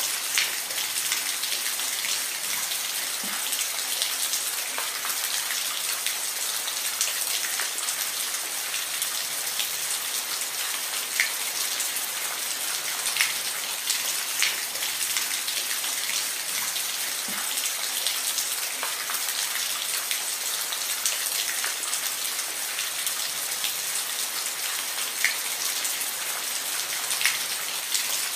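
Steady rainfall: a dense hiss of rain with scattered, sharper individual drops striking a surface.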